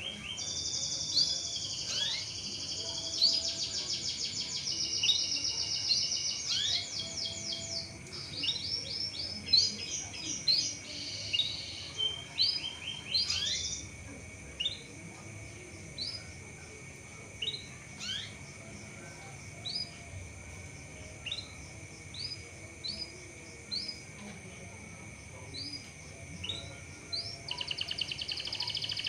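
Canary singing rapid trilled phrases for about the first half. It then gives single short rising 'cuit' chirps about once a second, and breaks into trilling again near the end.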